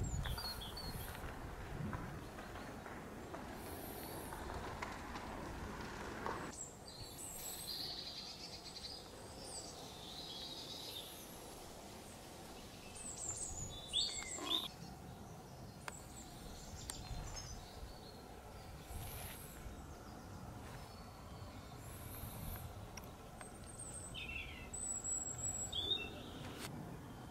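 Small birds chirping and calling at scattered intervals over a low, steady outdoor background noise. A pair of sharper, louder sounds comes about halfway through.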